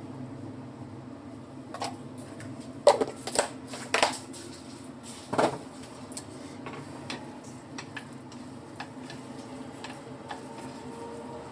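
Kitchenware clattering: a handful of sharp knocks and clinks in quick succession, then a few light ticks, over a steady low hum.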